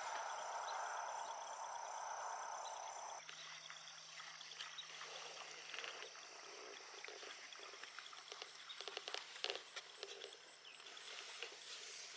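Faint marsh chorus of frogs and insects calling. The sound changes abruptly about three seconds in, after which scattered short clicks and ticks are heard over it.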